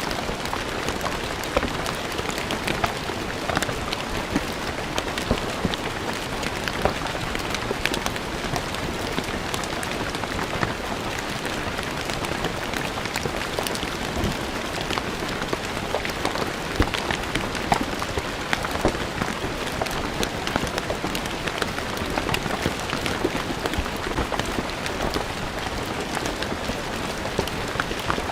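Steady rain falling on stone paving, with many separate drops ticking sharply on the hard surface.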